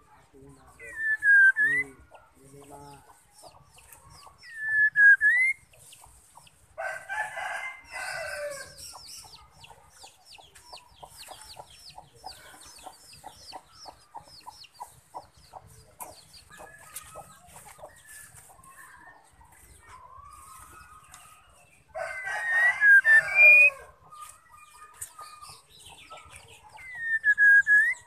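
White-rumped shama calling: three short whistles that dip and then rise, with a fast ticking chatter between them. Two louder, harsh calls about a second and a half long stand out, one early and one late.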